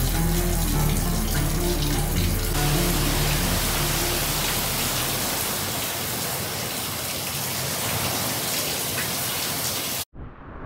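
Heavy hurricane rain pouring down on the water and a boat's deck, under soft background music that fades out in the first few seconds; the rain grows louder about two and a half seconds in. Near the end it cuts off suddenly and gives way to wind gusting on the microphone.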